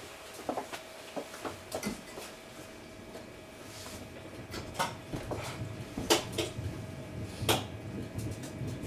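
Sharp clicks and knocks of rattling fittings inside a train, over a steady thin hum. A low running rumble builds from about halfway through.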